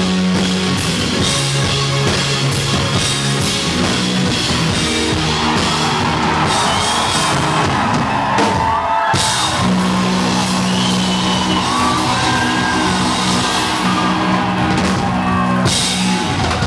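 Live rock band playing the closing bars of a song, drums and bass guitar holding steady notes, with crowd cheering and whistling rising over it from about five seconds in. The music stops just before the end.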